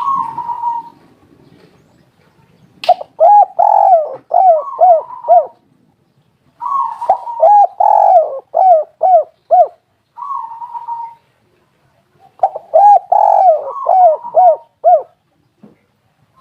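Spotted dove (tekukur) calling: a short single coo, then three bouts of quick, rolling coo notes, each lasting a few seconds, with another lone coo between the second and third bouts.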